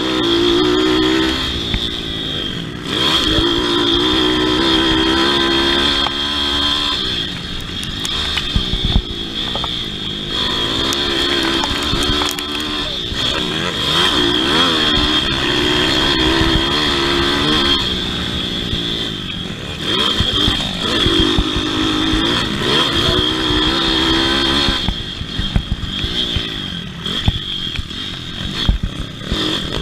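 Pit bike engine racing round a motocross track, revving up and falling off again and again as the throttle is opened and closed, with scattered knocks and clatter.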